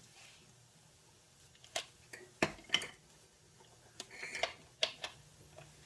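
Scattered sharp clicks and knocks of cookware being handled on a stove: a few separate metallic knocks, with a short clatter of pot or utensil near the middle.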